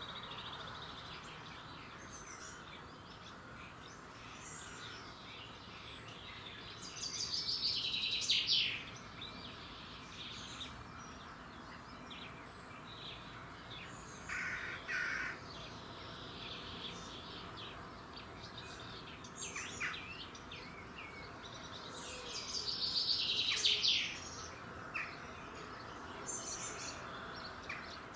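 Several songbirds singing in an early-morning dawn chorus: many short chirps and whistles over a steady background hiss, with two louder, rapid trilling songs, one in the first third and one near the end.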